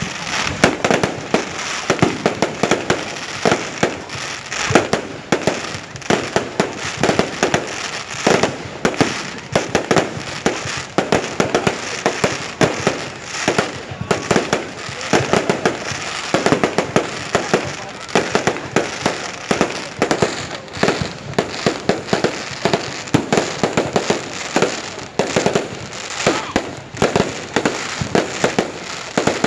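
Fireworks display: a dense, continuous barrage of sharp bangs and crackling, several bursts a second.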